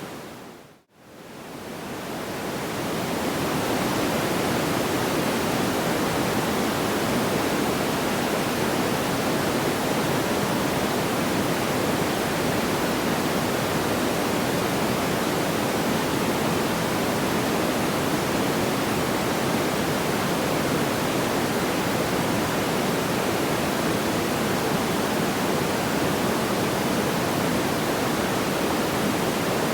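Steady rushing noise, even and hiss-like with no distinct crackles, from a sleep-sound track. It fades to silence just under a second in and swells back up over the next few seconds, as at a loop join.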